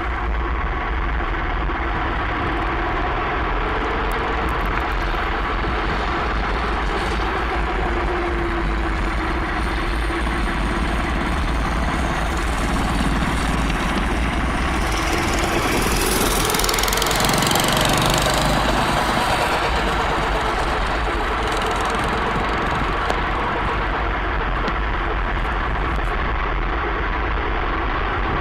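Small engine of a home-built go-kart running, its pitch wavering up and down and swelling louder about two thirds of the way through.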